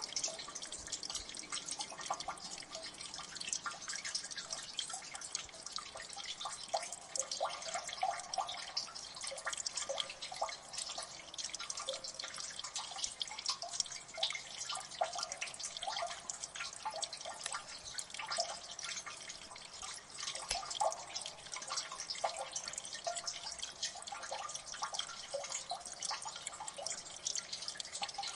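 Water dripping in a gully: many drops falling continuously and overlapping, with clearer plinking drips among a dense patter of finer ones.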